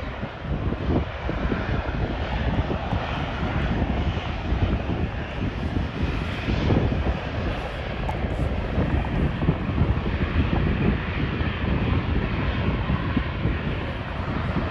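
Jet engine noise of a Boeing 737-800's CFM56 turbofans, a continuous rushing roar. Heavy wind buffets the microphone with an uneven low rumble.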